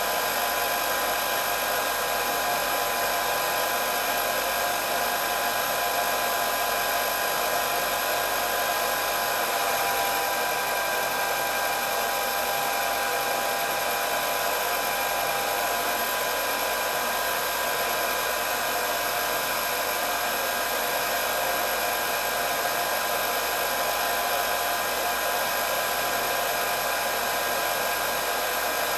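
Electric hair dryer running steadily: a constant rush of blown air with a thin motor whine on top.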